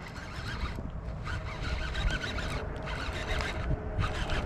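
Fishing reel being cranked to bring in a hooked speckled trout, a steady whirring of the reel's gears.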